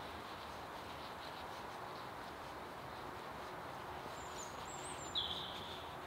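A bird calling over steady outdoor background noise: a faint, high twittering about four seconds in, then a short, louder note just after five seconds.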